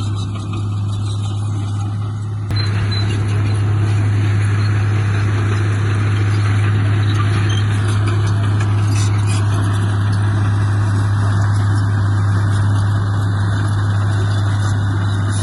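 Heavy diesel engine of earthmoving machinery running steadily with a deep, even drone. It gets suddenly louder about two and a half seconds in and holds there.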